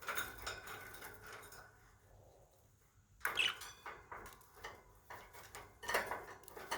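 Pet budgerigars clicking and tapping about, with scattered sharp little knocks and a short chirp about three and a half seconds in.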